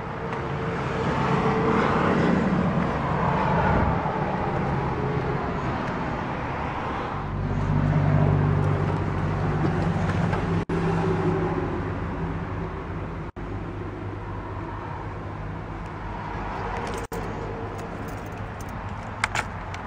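GMC Vandura G2500 van engine idling steadily soon after being started, its note swelling for a few seconds about seven seconds in before settling back. A few light clicks come near the end.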